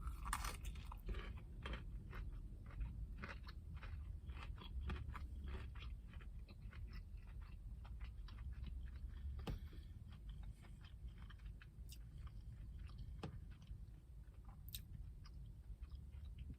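Close-up chewing of a breaded crispy fried-chicken sandwich: irregular wet crunching and mouth clicks, busier in the first half and thinning out later.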